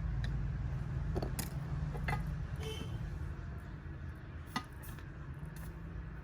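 Several small sharp clicks and taps, like metal tools handled on a workbench during a smartwatch repair, over a low steady background rumble.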